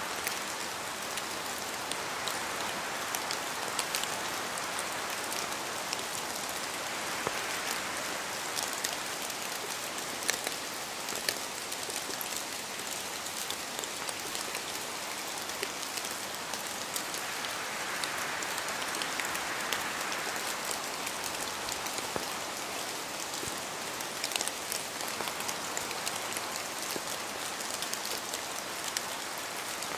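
Steady rain falling on a surface, a continuous hiss sprinkled with the ticks of individual drops, swelling a little and easing now and then.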